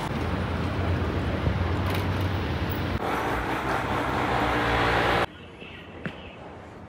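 Steady vehicle running noise with a low hum, which cuts off abruptly about five seconds in, leaving a much quieter background.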